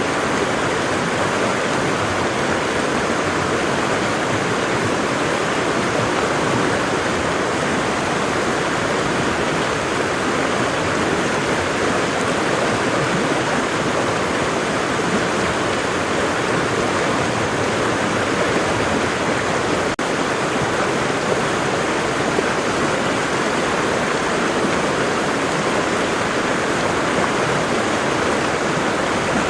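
Waterfall: falling water rushing steadily without a break.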